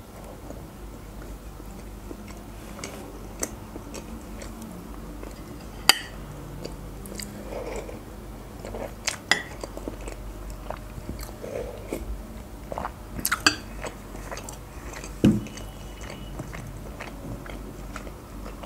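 Close-miked chewing and wet mouth sounds of a person eating a soft homemade burger and chicken soup, with scattered smacks and a few sharper clicks over a steady low hum.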